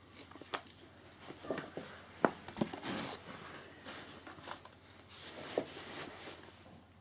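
Handling noise: a series of light knocks and clicks with rustling between them, the sharpest knock a little over two seconds in.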